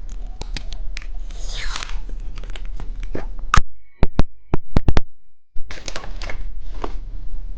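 Plastic candy packaging being torn open and handled: crinkling crackles and clicks, with a short tearing rip about a second and a half in and a few loud sharp clicks past the middle.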